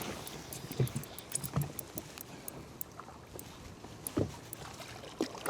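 Water lapping and slapping against a small fishing boat's hull, with scattered light knocks.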